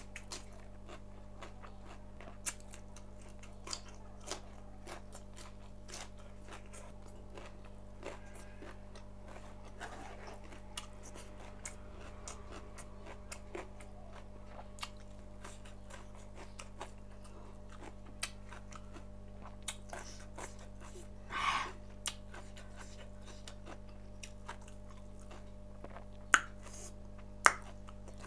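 Close-miked chewing and biting of cooked pork: small wet mouth clicks and smacks, with a brief louder sound about two-thirds through and two sharp clicks near the end, the loudest sounds. A steady low electrical hum lies underneath.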